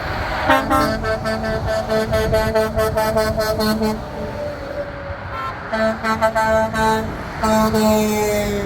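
Multi-tone truck air horn from a big rig in the convoy, sounded in a rapid string of short blasts at about four a second, a pause, more short blasts, then one longer blast that drops slightly in pitch near the end. Low engine rumble runs underneath.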